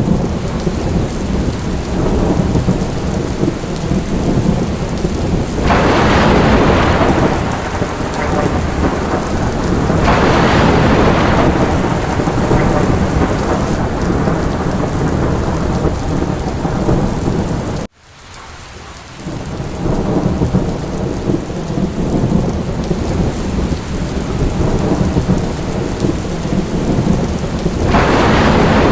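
Steady heavy rain with a deep low rumble underneath, swelling louder about six, ten and twenty-eight seconds in. A little past halfway it cuts out abruptly and fades back in over a couple of seconds.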